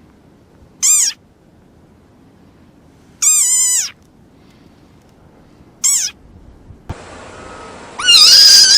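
An animal giving three short, high-pitched calls that rise and fall in pitch, the middle one the longest. Near the end a different, louder sound of held whistle-like tones that step in pitch begins.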